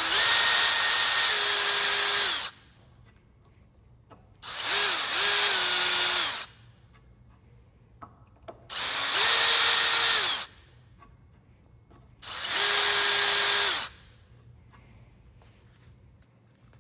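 Dremel rotary tool with a cone bit cutting a hole through a carbon-fibre rigger, run in four short bursts of high-pitched whine. The pitch rises as the tool spins up at the start of each burst and drops as it spins down.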